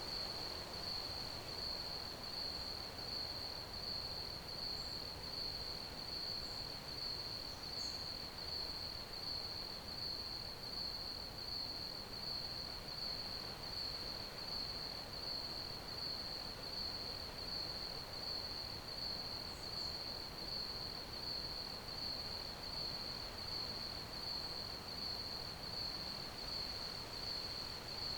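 Crickets chirping in a steady, even chorus, a high pitched trill that pulses without pause, over a faint hiss.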